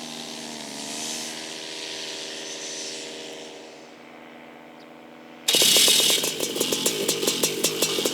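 Paramotor engine running at steady revs, its pitch dipping briefly about a second in and then fading. About five and a half seconds in, a sudden loud rushing noise with rapid crackling cuts in over it.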